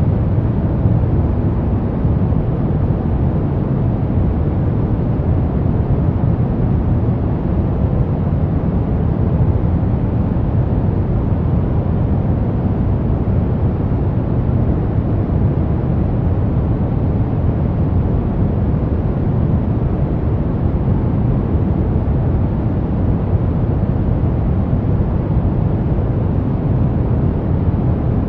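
Brown noise: a steady, even rumbling hiss, strongest in the low end and fading toward the highs, with no change or events.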